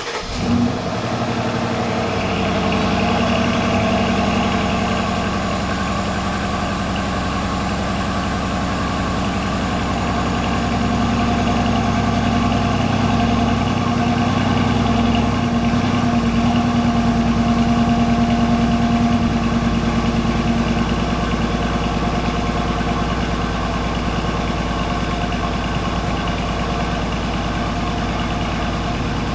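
Mercedes E500 W212's 4.7-litre twin-turbo M278 V8 cold-starting: it catches right at the start with a brief rev flare under a second in, then settles into a steady fast cold idle. The exhaust runs without secondary cats and with an X-pipe in place of the central resonator, through the stock muffler.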